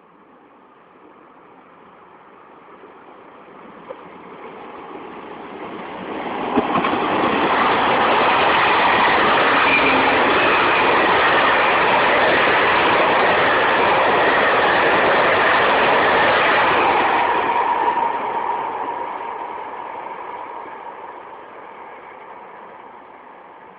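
An SNCF train passing at speed: its rumble and rail noise grow over several seconds, stay loud for about ten seconds as the train goes by, then fade away.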